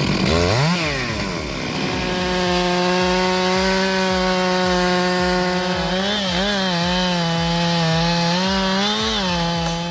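Stihl MS 661 C-M two-stroke chainsaw revving up about a second in, then running at full throttle in a cut through a large oak. In the second half its pitch dips and wobbles several times as the chain loads in the wood.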